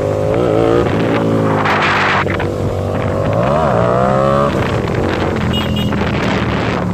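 Hyosung GTR 250 motorcycle's V-twin engine running through an SC Project aftermarket exhaust while riding. The engine note briefly rises and falls twice, about half a second in and again past the middle, with a short burst of noise around two seconds.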